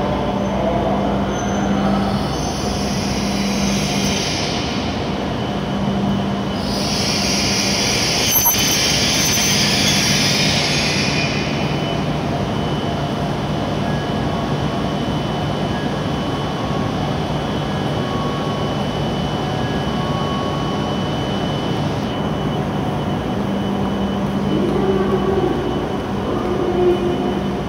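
E7 series Shinkansen trainset pulling slowly into the platform and coming to a stop, with a steady hum and rumble. High hissing comes about two seconds in and again from about seven to eleven seconds in.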